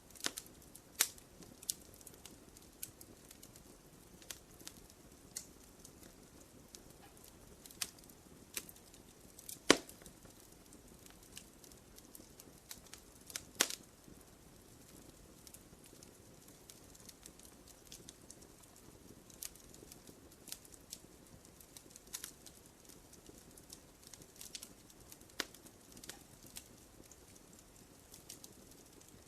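Fireplace fire crackling: scattered sharp pops and snaps over a faint steady hiss, the two loudest pops about ten and fourteen seconds in.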